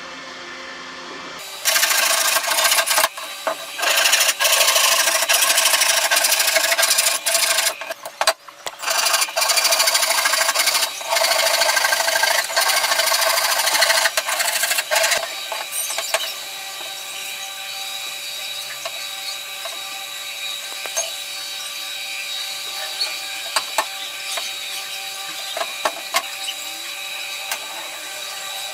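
Electric woodworking power tool working wood: loud passes with short breaks for the first half, then a quieter steady running with occasional light clicks.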